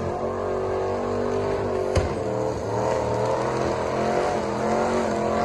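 Car engine running steadily, its pitch wavering slightly up and down, with a single sharp click about two seconds in.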